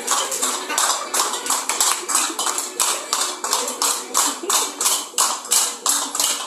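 Sharp rhythmic taps, about four a second, keeping the beat of a folk dance, with music playing faintly underneath.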